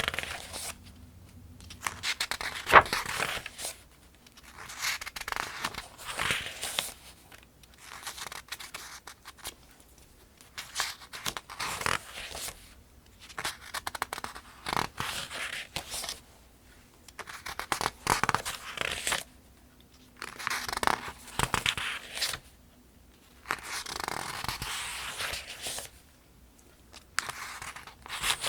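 Paper pages of a Farmers' Almanac being turned one after another, each turn a brief rustle and swish, at a steady pace of roughly one every one and a half to two seconds.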